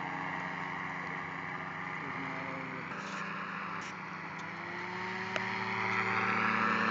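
A motor engine running with a steady drone that grows louder over the last two seconds or so.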